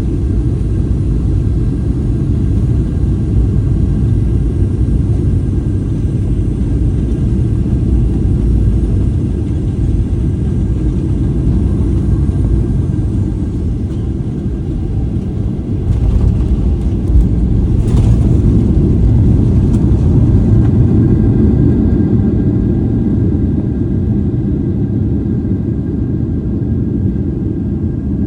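Boeing 737 landing: a steady low rumble of engine and airflow, a few sharp knocks about 16 seconds in, then the noise swells for several seconds and eases off, as it does at touchdown and the rollout.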